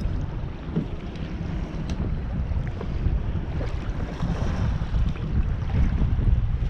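Wind buffeting the microphone in a gusty rumble, with water sloshing around a kayak.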